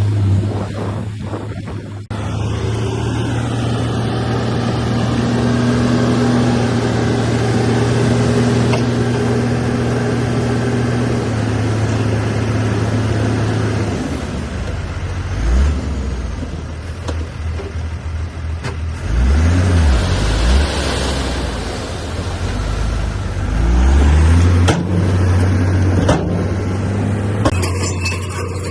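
Diesel engine of heavy earthmoving machinery running steadily, then revving up and down several times in the second half as it works under changing load, with a few knocks.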